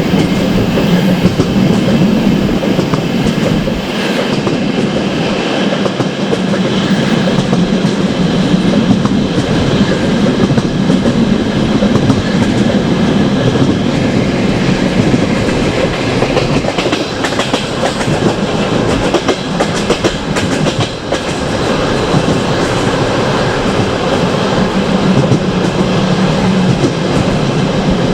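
Passenger train carriage running along the track, its wheels giving a steady rumble with clicks over the rails, heard from on board.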